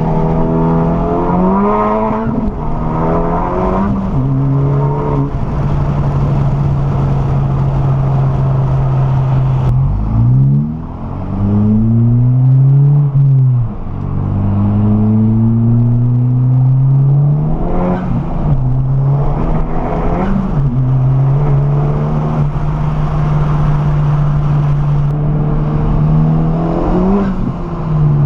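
Turbocharged Honda Civic Type R four-cylinder engine with turbo and intake sounds. It holds a steady note for long stretches and revs rise and fall several times, with one long climb and drop about ten seconds in.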